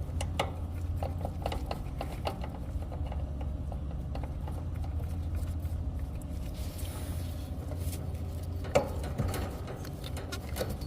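Hand tools working on copper refrigerant line: scattered small clicks and scrapes, with one sharper click near the end, over a steady low hum.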